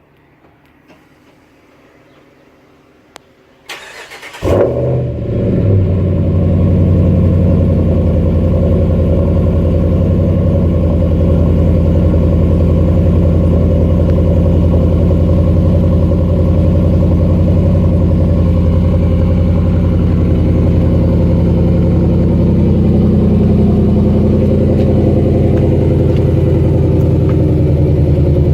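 2017 Ram Rebel's 5.7-litre Hemi V8 cold-starting through a Carven Progressive Series muffler: a short crank about four seconds in, then it catches with a loud burst and settles into a steady, loud idle.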